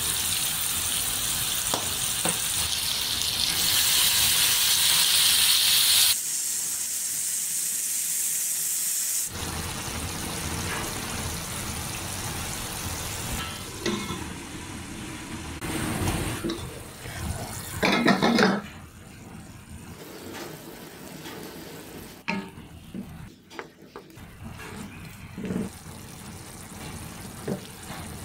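Pork pieces sizzling as they fry in a wok, a steady hiss at first. It then grows quieter, broken by a few sharp metal knocks and clicks from the wok lid and utensils.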